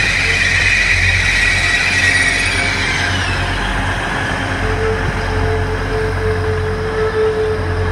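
Hull Trains Class 180 diesel multiple unit moving slowly along the platform: a low diesel engine rumble under a high wheel squeal that fades away about three seconds in, then a steady mid-pitched hum from about halfway.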